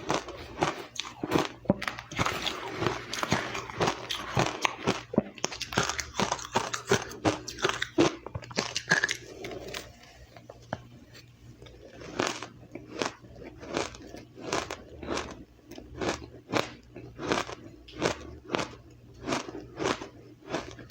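A person biting and chewing ice close to the microphone: dense, rapid crunching for the first half, a brief lull, then a steady chewing rhythm of about one and a half crunches a second.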